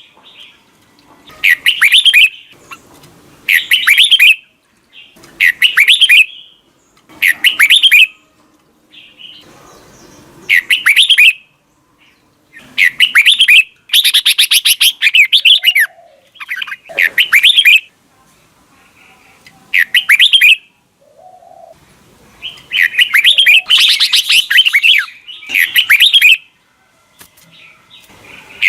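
Red-whiskered bulbul singing a wild bird's double-note song: loud, bright warbled phrases about a second long, repeated every second or two with short pauses between, a few of them running longer.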